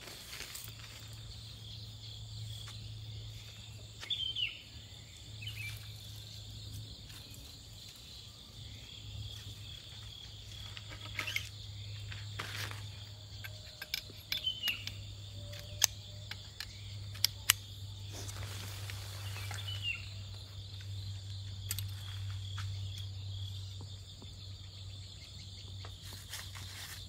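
Steady high drone of crickets and other insects, with a few short falling calls and scattered sharp clicks and knocks, mostly in the middle stretch.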